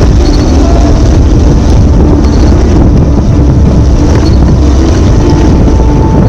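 Loud wind buffeting on an action camera's microphone as it rides along on a moving electric go-kart: a constant deep rumble with no break.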